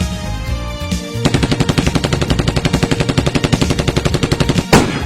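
A long burst of rapid automatic gunfire, about ten shots a second for some three and a half seconds, over background music, ending in one loud heavy impact.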